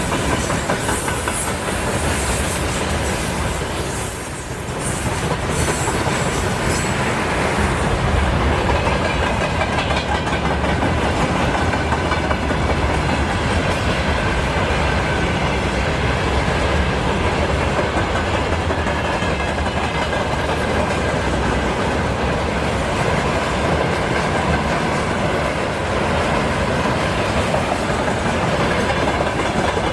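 Train cars rolling steadily along the track, wheels clattering over the rail joints, with a faint high whine near the start.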